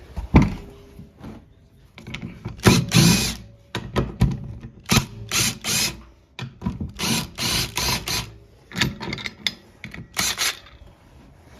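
Ratchet wrench working fasteners on the engine in a string of short, irregular bursts of ratcheting, with a longer run about three seconds in.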